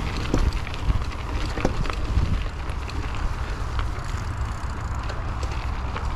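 Raleigh Trailblazer hardtail mountain bike riding along an off-road trail: steady tyre rumble with frequent small rattles and knocks from the bike, and wind rumbling on the microphone.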